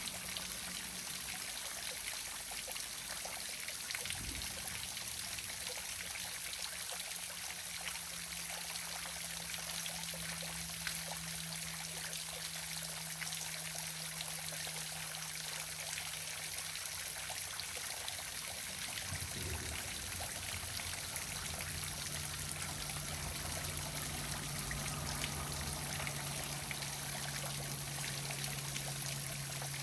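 Waterfall splashing steadily, an even, unbroken rush of falling water.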